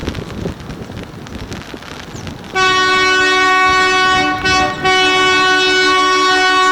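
Wind and rain noise, then about two and a half seconds in a diesel locomotive's air horn sounds a long, loud blast of several notes at once, broken briefly in the middle; the horn is Alco diesel locomotive 844's.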